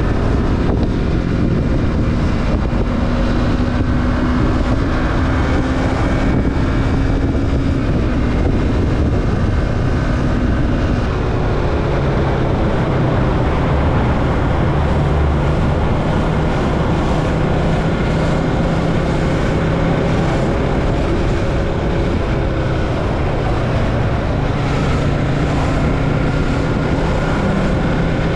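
Yamaha MT-25's 250 cc parallel-twin engine running through an Akrapovic slip-on exhaust with its silencer insert as the motorcycle is ridden, with wind on the microphone. The engine note holds fairly steady and changes pitch about eleven seconds in.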